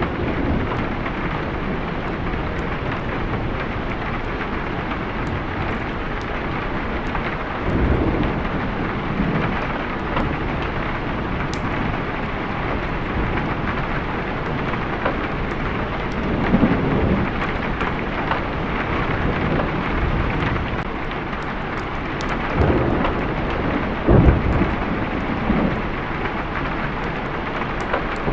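Steady rain with rolling thunder: several low rumbles swell and fade over the rain, the loudest near the end.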